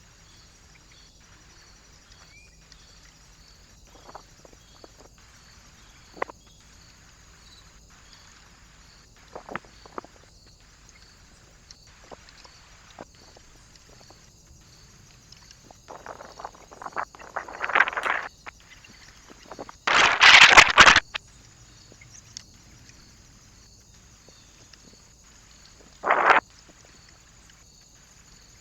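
Small birds at a feeder perch: scattered light taps and scrabbling, with a loud rustling burst lasting about a second twenty seconds in and a shorter one near the end. Under it all runs the trail camera's steady hiss.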